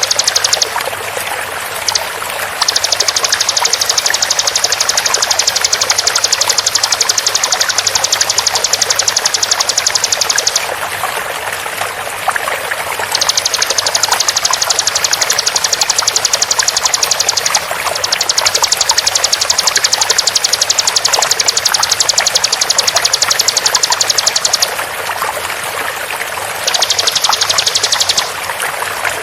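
Bar-winged prinia (ciblek) giving its rapid 'tembakan' call: long runs of very fast, high repeated notes, each lasting several seconds with short breaks between them, over a steady sound of flowing water.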